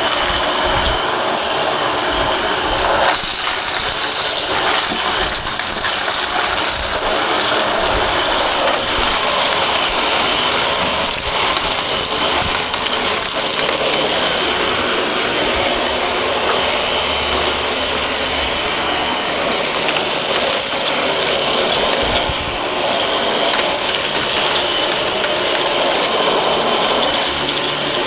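1,100 W corded Dyson vacuum cleaner running steadily on a rug: a loud rush of air with a thin, high whine over it.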